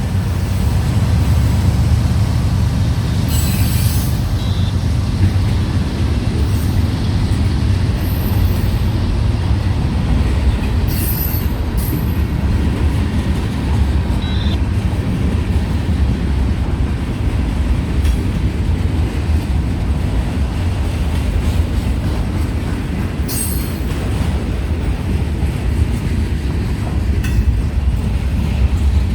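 Freight train rolling past with a steady, heavy low rumble of wheels on rail. Brief high-pitched wheel squeals break in several times, about 3 s, 8 s, 11 s and near the end.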